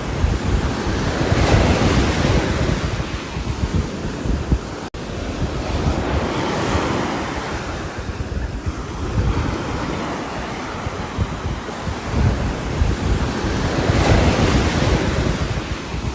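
Steady rain falling on a roof, swelling and easing every several seconds as if in gusts, with a sudden momentary dropout about five seconds in.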